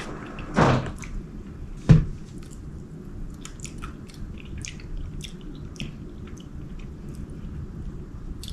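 Close-up chewing and wet mouth smacks of someone eating sauced chicken wings, with scattered short clicks and a sharper knock about two seconds in.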